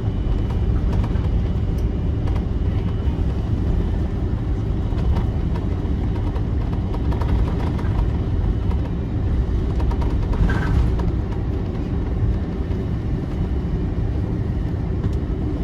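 Steady low rumble of an Airbus A330-343's Rolls-Royce Trent 700 engines and rolling gear while the airliner taxis, heard from inside the cabin.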